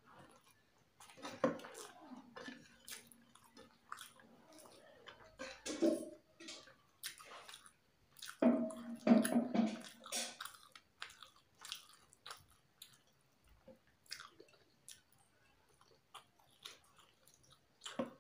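Close-up chewing of chicken biryani, with many short wet mouth clicks and smacks. A few brief low hums come in between, the loudest about nine seconds in.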